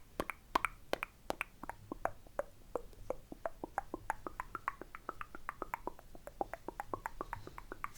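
Rapid, close-up wet mouth clicks and tongue pops, about five or six a second. The pitch of each click shifts up and down as the mouth changes shape.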